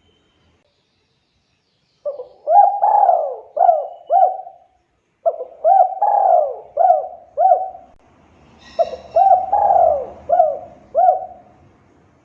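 Spotted dove (tekukur) cooing: after a couple of seconds of quiet, three phrases of several rising-and-falling coo notes each, with short pauses between them.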